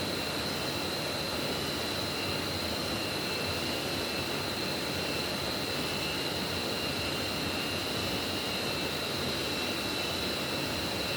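Steady rushing of a forest stream, with two thin, steady high-pitched tones running over the water noise throughout.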